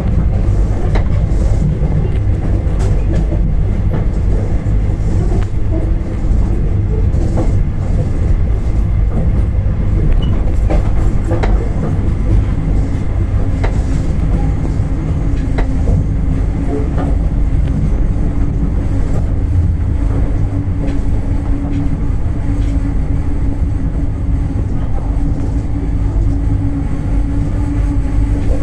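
Locomotive-hauled passenger train pulling into a station: a heavy rumble from the rolling coaches, with wheels clicking over rail joints. A steady low tone comes in about halfway and holds.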